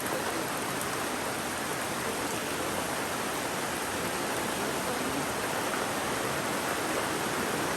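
Steady rain falling, mixed with the rush of the river: an even, unbroken hiss.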